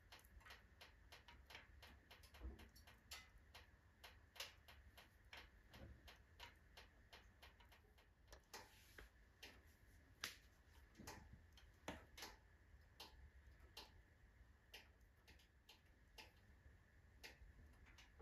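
Wood fire of oak and alder logs crackling in a stove: faint, irregular sharp pops and crackles, several a second, over a low hiss.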